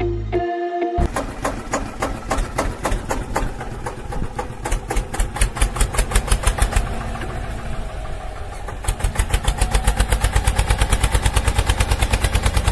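A tractor engine chugging with a steady beat of knocks. About nine seconds in, the beat turns louder and quicker.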